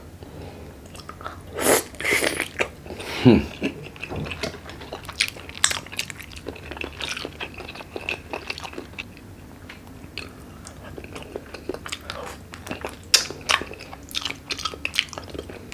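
Close-up eating sounds of a man chewing and biting shrimp and clams in a Cajun-style sauce: wet smacking and many sharp small clicks, louder in the first few seconds.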